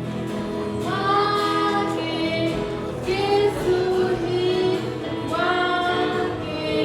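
Group of children singing a gospel song together, with musical accompaniment underneath.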